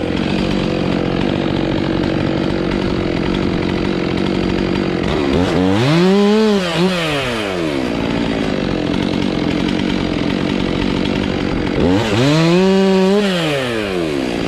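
Chainsaw revved up and back down twice, each rev lasting about two seconds, over another engine running steadily.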